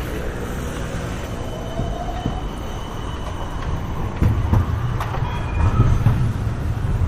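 Tram running past on its rails, with a thin wheel squeal in the first half over a low rumble; the rumble grows heavier with knocks in the second half.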